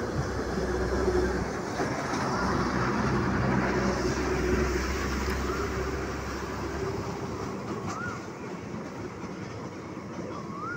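Passenger train rolling slowly along the track, a steady low rumble that drops off after about seven seconds.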